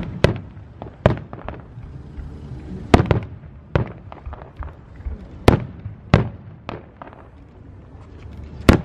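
Aerial fireworks shells bursting overhead: about eight sharp, loud bangs at irregular intervals of half a second to two seconds, each with a short trailing echo.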